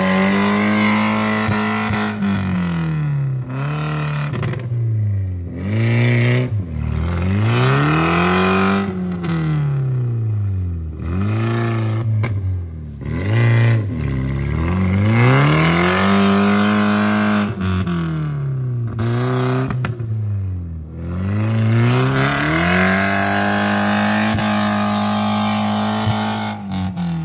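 Car engine revving hard over and over. Its pitch climbs and falls repeatedly and is held at high revs for a second or two several times.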